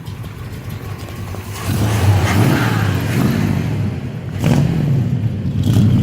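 1982 Chevy pickup's Corvette engine, running through straight pipes with Cherry Bomb mufflers, idling and then revved: the note climbs about a second and a half in, eases briefly past four seconds, and is revved up again.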